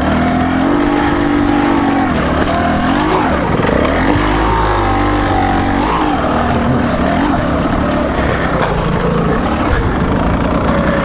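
Off-road dual-sport motorcycle engine running at low trail speed, its pitch rising and falling again and again as the throttle is opened and closed.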